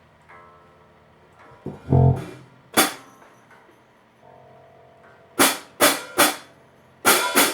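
Band instruments being tried out during setup: a guitar plays quiet plucked notes, a heavy low thump comes about two seconds in, then six sharp drum hits, spaced apart, mostly in the second half.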